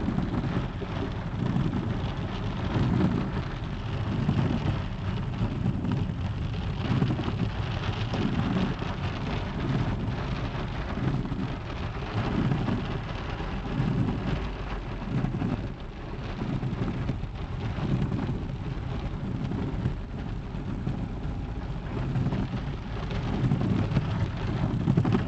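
Steady rain falling, a continuous hiss over a low rumble that swells and fades every second or two.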